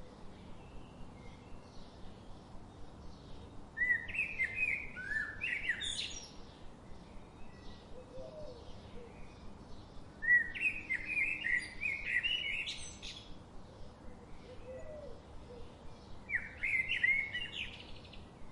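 Birdsong: one bird sings a quick, high warbling phrase of two to three seconds three times, about six seconds apart, over faint chirping from other birds.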